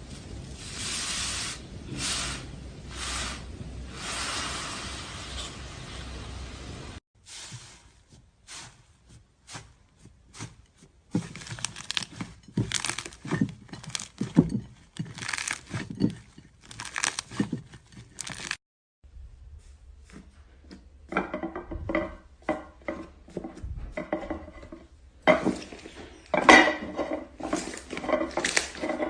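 Slime being squeezed, stretched and mixed by hand: quick bursts of wet crackling and clicking, in several segments that cut off suddenly.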